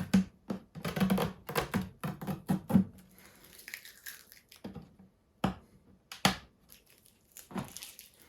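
Residue and double-sided tape being cleaned off a sheet of scanner glass by hand: a run of short, irregular tearing and rubbing sounds, closely packed at first, then more spaced out.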